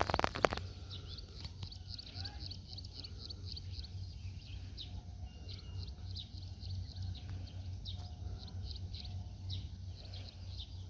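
Small birds chirping repeatedly in short, high calls over a steady low rumble, with a brief burst of knocking right at the start.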